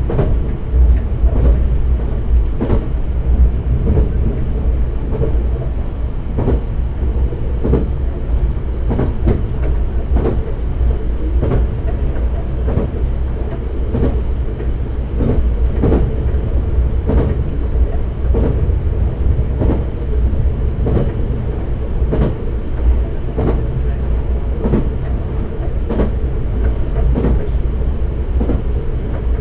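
Diesel railcar running along jointed track: a steady low rumble of engine and wheels, with the wheels clicking over rail joints about once a second.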